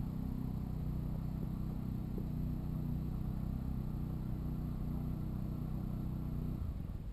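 Honda NC750X's parallel-twin engine idling steadily, then cutting off abruptly near the end.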